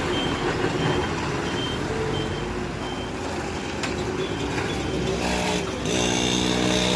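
Tipper truck manoeuvring slowly, its reversing alarm giving a short high beep about once a second over the running diesel engine. About five seconds in, a louder steady engine note comes in.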